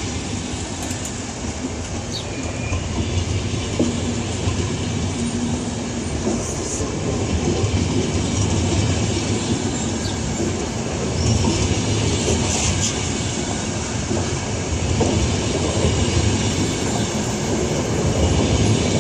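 A train's cars running past close by: steady wheel-on-rail rumble with clicks over the rail joints and a few brief high wheel squeals.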